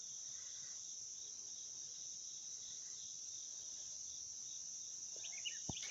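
Steady, high-pitched outdoor insect chorus, a continuous shrill drone, with a few faint chirps and a soft thump near the end.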